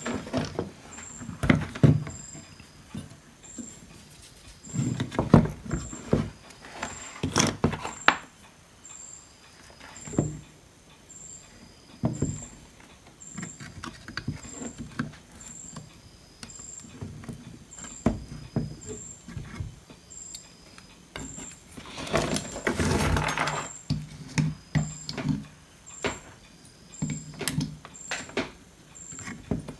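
Tools and parts being handled during bench repair of an electronics board: irregular clicks, taps and knocks, with a longer scraping noise about three-quarters of the way through. A faint high pip repeats about once a second.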